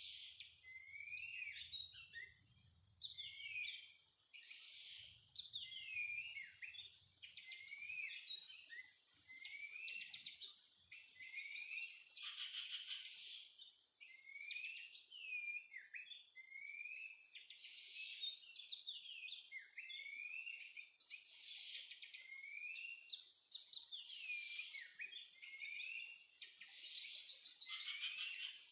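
Oriental magpie-robin (kacer) calling, a short swooping phrase repeated over and over about once a second, with fuller bursts of song now and then. A steady high-pitched whine runs underneath.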